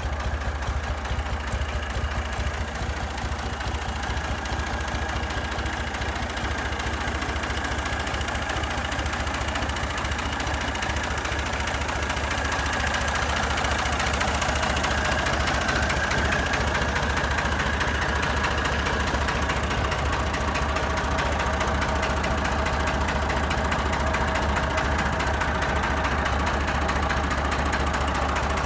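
Massey Ferguson 150 tractor engine idling with a steady, even beat, getting a little louder about halfway through.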